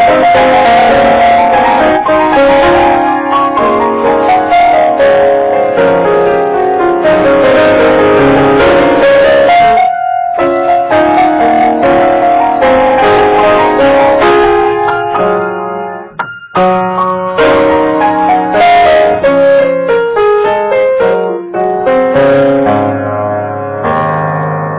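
Piano playing: a busy stream of notes with short breaks about ten and sixteen seconds in, fading near the end.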